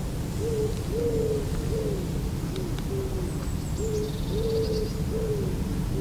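A bird's low hooting calls: a string of short, arched notes repeated unevenly over a steady low rumble.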